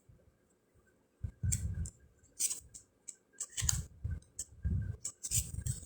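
Playing cards being flipped through and laid down by hand: about five short slides and taps of card stock, irregularly spaced.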